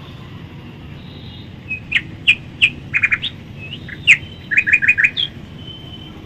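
Small birds chirping in short, high, sharp calls, some single and some in quick runs of three or four, starting about two seconds in and stopping a second before the end, over a steady low background hum.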